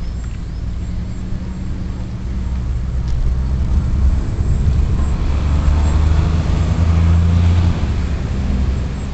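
Strong wind buffeting the microphone: a heavy low rumble that gusts up from about four seconds in and eases near the end.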